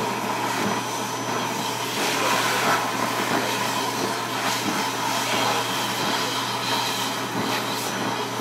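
Build-A-Bear stuffing machine's blower running, a steady hiss with a constant low hum as it blows fluff into a plush toy.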